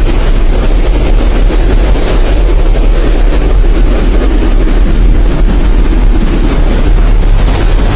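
Strong storm wind blowing hard, buffeting the microphone with a loud, unbroken, fluttering rumble.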